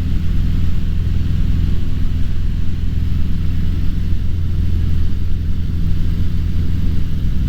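Cessna 150's four-cylinder Continental O-200 engine and propeller running at a steady cruise setting, a constant low drone heard from inside the cabin.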